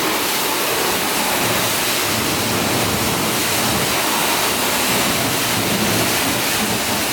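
A car-wash high-pressure wand spraying water onto a car's bodywork in a steady hiss.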